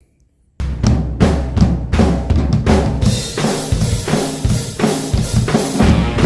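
Acoustic drum kit played along to a rock track, starting about half a second in: bass drum and snare hits with cymbals over the song's steady bass and guitar.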